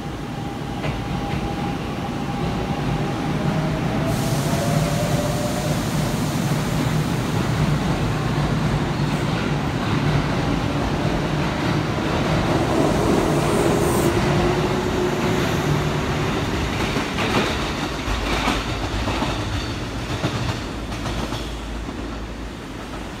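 Kintetsu electric commuter train running in along the platform: a thin motor whine, then a rising rumble and hiss of wheels on rail as the cars come alongside. Near the end there is a run of clicks and rattles as the wheels cross rail joints.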